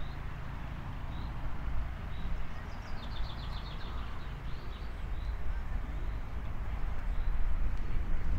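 Small birds singing: scattered single high chirps, and a quick run of about eight notes about three seconds in, over a steady low rumble.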